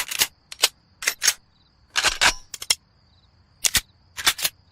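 A rapid series of sharp cracks like gunshots, coming singly and in quick clusters of two or three, about fifteen in all, over a faint steady high chirping.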